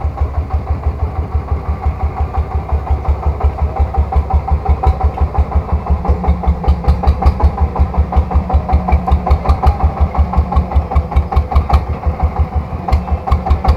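Three-wheeled farm tractor's single-cylinder diesel engine running with an even beat of about six or seven pulses a second. It briefly dips about twelve seconds in, then comes back slightly quicker and louder.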